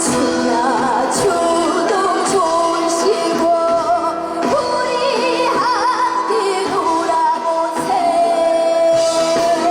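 A girl singing a trot song with a wavering vibrato over instrumental accompaniment with a few drum hits; near the end she holds one long note.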